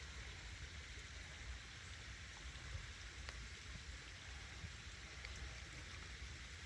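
Faint, steady outdoor water hiss with a few light ticks, like wet woodland dripping after rain, over a low rumble.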